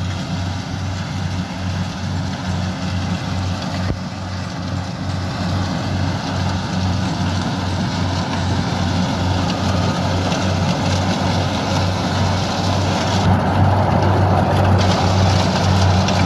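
Rice combine harvester's engine running steadily under load as it cuts the crop, with an even low pulsing. It grows a little louder through the second half.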